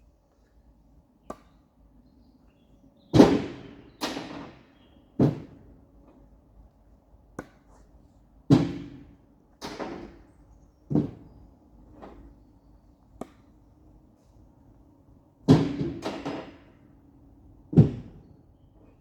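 Firewood being handled and dropped: an irregular series of about a dozen wooden knocks and thuds, each dying away quickly, over a faint steady hum.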